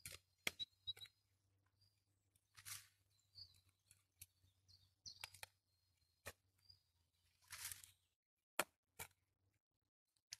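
Scattered sharp snaps and clicks with two short rustling bursts, against faint birds chirping in the forest.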